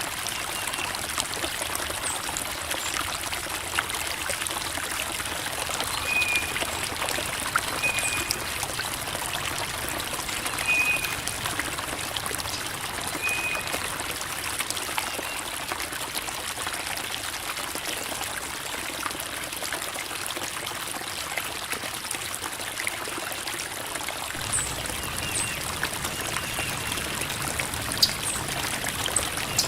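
Creek water babbling and trickling over rocks in a steady, even rush, with a few short high chirps now and then.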